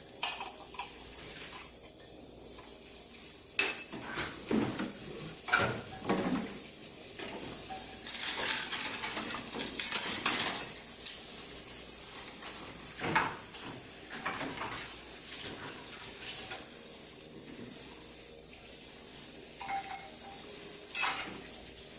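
Earthenware ttukbaegi pots and dishes clinking and clattering now and then, busiest about eight to ten seconds in, over a steady high-pitched whine from the ultrasonic cleaner.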